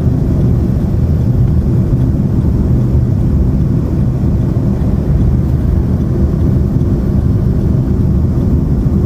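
Steady low rumble of a moving car heard from inside the cabin: engine and road noise with no distinct events.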